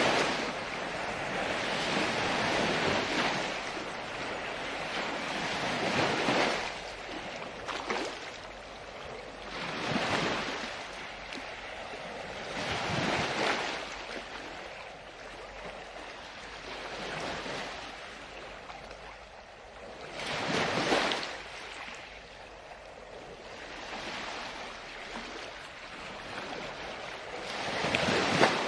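Ocean waves breaking on the shore, a steady wash of surf that swells every few seconds as each wave comes in and falls back.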